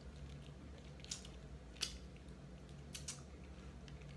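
Faint eating sounds from people eating fried tacos: chewing with about four short, sharp mouth smacks or crunches, the loudest just before halfway, over a steady low hum.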